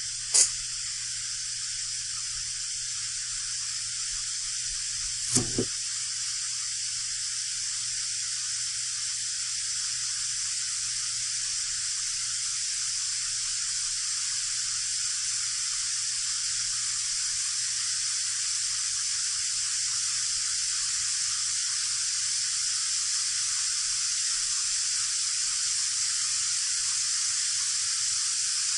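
Steady electronic hiss from the recording's microphone with a low hum underneath, broken by a short click about half a second in and a quick double click around five seconds in.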